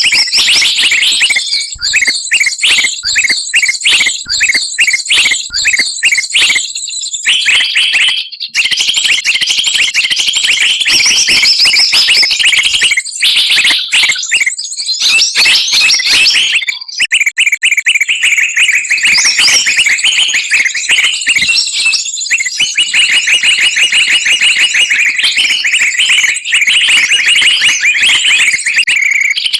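Many small songbirds calling at once in a dense, loud chorus of rapid high chirps and trills, with brief lulls: a mixed-species bird-lure recording.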